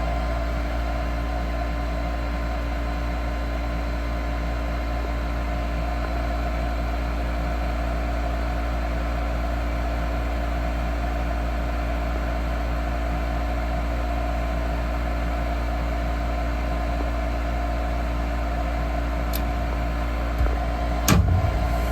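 Gas furnace running steadily after start-up, its draft inducer motor and firing burners giving an even hum. A sharp click or knock near the end.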